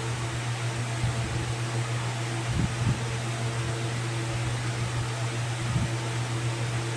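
Steady hum and hiss of a fan-type machine, such as an electric fan or air conditioner, with a few soft low bumps about two and a half seconds in and again near six seconds.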